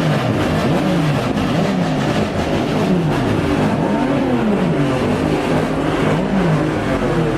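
Car engine revving hard, its pitch swinging up and down over and over about once a second, over a thick wash of other engine noise.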